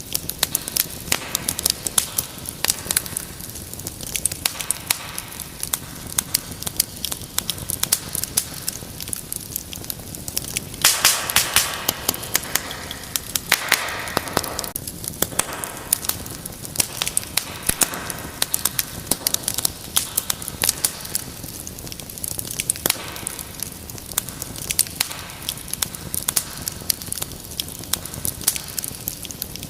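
Wood fire in a fireplace crackling and popping: a steady hiss of flame with frequent sharp pops. A denser, louder run of crackling and hissing comes about eleven to fifteen seconds in.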